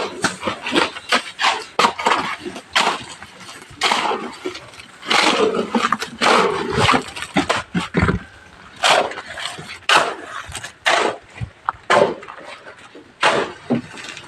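Construction work: irregular sharp knocks and bangs, one after another, some close together and some a second or more apart.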